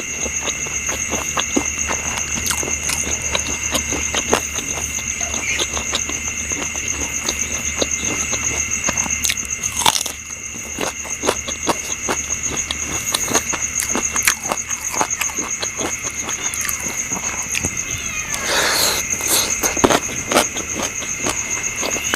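Close-up eating sounds: wet chewing, smacking and short mouth clicks, with a louder rustling bite near the end. Underneath runs a steady high trilling of night insects.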